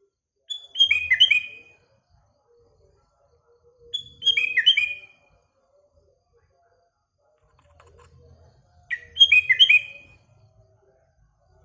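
Sooty-headed bulbul singing: three short, bubbly phrases of quick falling notes, one about every four seconds.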